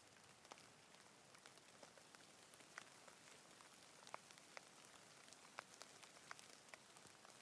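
Faint, steady rain hissing, with single drops striking close by every second or so.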